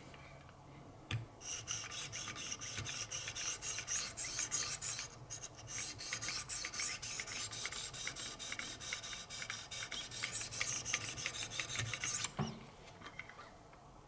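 Fine 2,200-grit stones on a Wicked Edge guided sharpener scraping along an S90V steel knife edge in quick repeated strokes. They start about a second in, pause briefly, and stop shortly before the end.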